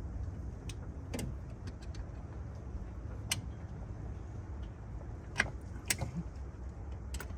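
Scattered sharp metallic clicks and clinks from hand tools working a stud on the engine, about six in all, over a steady low hum.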